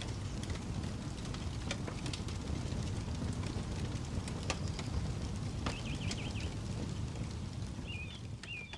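Campfire crackling, with frequent sharp pops and snaps over a low rumble. A few high, wavering chirping calls come in about six seconds in and again near the end.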